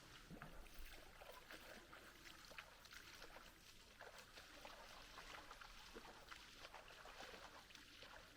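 Faint water sounds: small irregular splashes and trickling of shallow river water.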